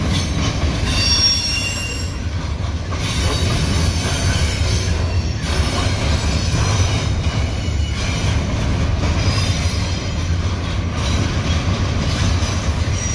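Double-stack intermodal freight cars rolling past on steel rails, a steady low rumble of wheels and cars. Brief high-pitched wheel squeals come through now and then, clearest about a second in.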